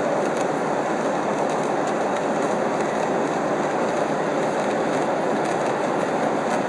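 Steady roar of an airliner cabin in flight: engine and airflow noise heard from inside the cabin, even and unchanging.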